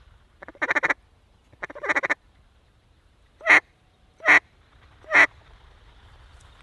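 Mallard-style quacking: two quick runs of rapid, chattering quacks, then three loud single quacks about a second apart.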